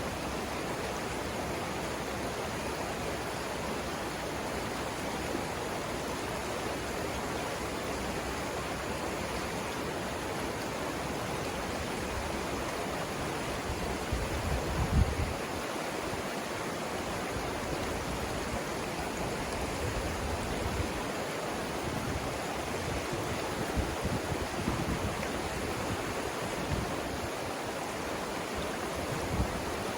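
Rapids on the Savannah River giving a steady, even rush of water. A few brief low bumps break through about halfway and again toward the end.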